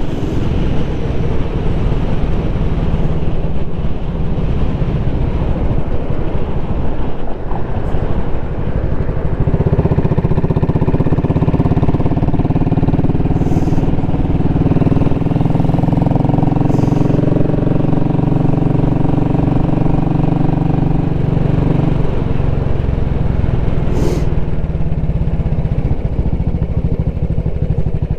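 2017 Royal Enfield Classic 500's air-cooled single-cylinder engine running on the move. From about ten seconds in the engine note grows louder and holds steady, then eases back about twenty-two seconds in.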